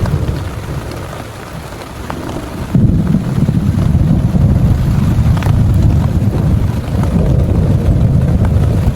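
Heavy rain with a deep rolling thunder rumble that comes in suddenly about three seconds in and keeps going loud to the end.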